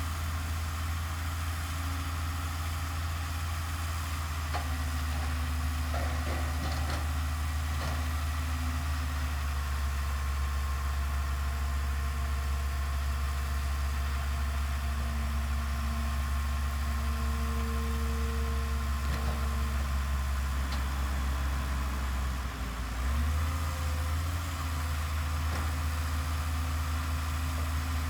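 Heavy diesel earthmoving machinery running steadily, its sound concentrated very low, with a brief dip and shift in tone about 23 seconds in.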